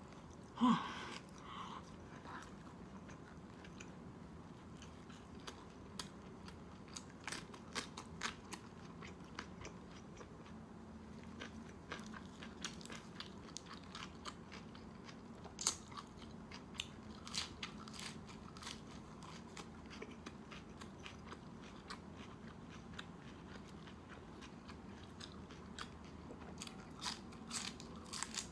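Close-miked eating: chewing baked pork and biting raw green chili peppers, with many scattered short crunches and wet mouth clicks.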